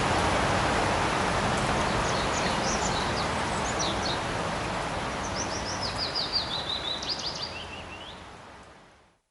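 Light rain falling in a forest, a steady hiss, with small birds chirping over it. A quick run of chirps steps down in pitch past the middle. The whole sound fades out to silence near the end.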